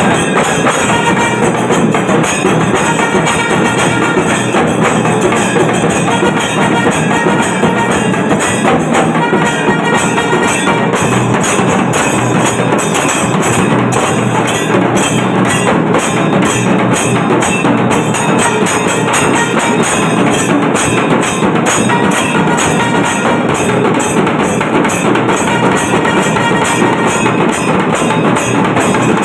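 Kailaya melam temple percussion ensemble playing, with drums and jingling metal percussion beating a loud, fast, unbroken rhythm.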